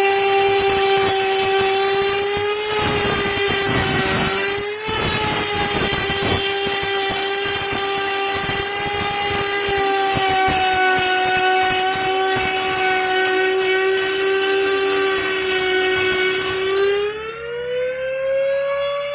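Electric wood router running under load as it cuts a circular hole in a wooden speaker box: a steady high whine with the rasp of the bit in the wood. Near the end the whine rises in pitch and gets quieter as the motor speeds up, the bit coming off its load.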